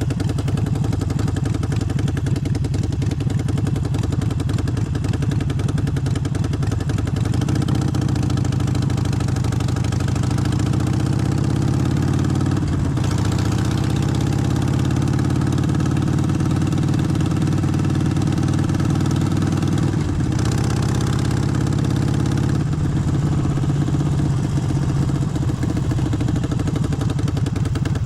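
Harley-Davidson Forty-Eight's air-cooled 1200 cc V-twin running steadily, its engine speed rising and falling a couple of times in the middle.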